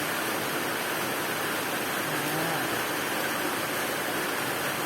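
Steady rain falling, not heavily: an even hiss with no distinct drops or knocks.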